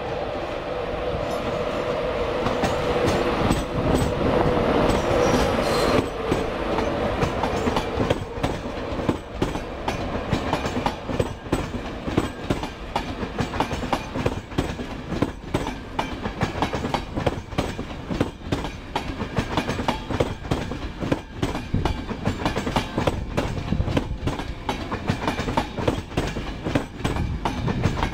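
Class 91 electric locomotive arriving with its Mark 4 coaches. A steady drone builds as the locomotive draws near and passes. From about six seconds in, the coaches' wheels click steadily over the rail joints.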